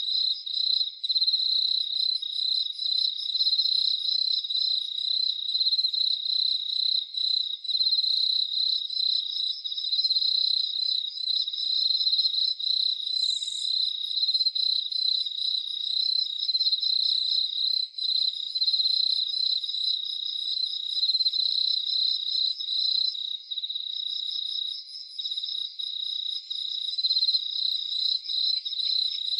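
A chorus of crickets chirping without pause, a dense, fast-pulsing high trill, with fainter, higher-pitched pulsed trills from other insects coming and going.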